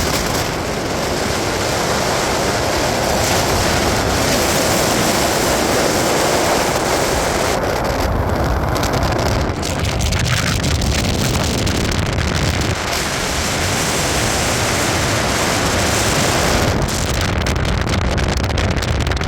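Wind rushing over the microphone on top of the steady low rumble of a moving vehicle.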